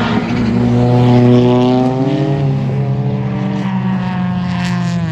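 Car engine running at a steady speed through a loud exhaust, a drone that holds one pitch.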